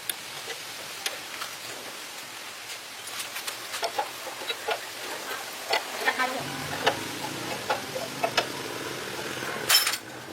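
Scattered light clicks and taps of small metal parts over a steady hiss. A low hum comes in a little past six seconds, and there is one louder click near the end.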